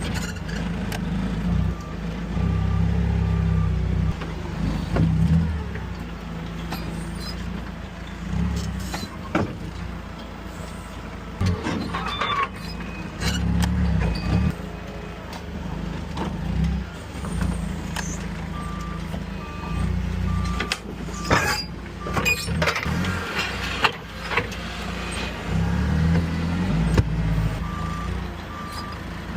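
Moffett truck-mounted forklift at work: its engine revs up and down in short spells while a reversing alarm beeps in runs, with scattered knocks and clanks.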